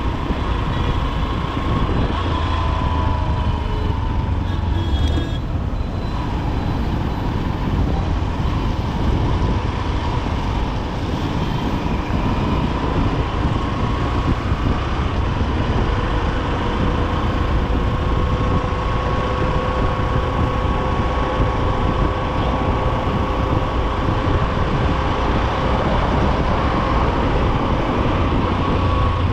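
Honda SP125's single-cylinder engine running steadily on the move, with the steady rumble of surrounding road traffic.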